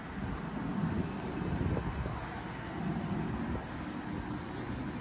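NJ Transit bilevel commuter train departing, its coaches rolling past on the rails with a steady low rumble of wheels.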